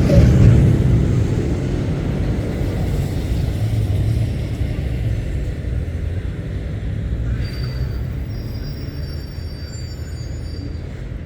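Heavy goods lorry's diesel engine passing close by, loudest about half a second in and then fading as it pulls away. About seven seconds in, thin high whistling tones start and last a few seconds.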